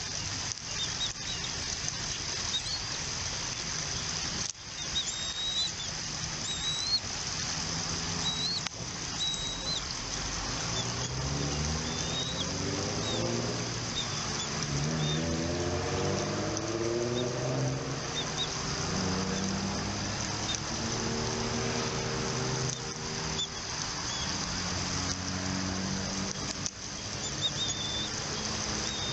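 Outdoor nest-cam ambience: scattered short, high chirps from birds over a steady high hiss. A low, wavering engine-like hum comes in about eight seconds in and fades near the end.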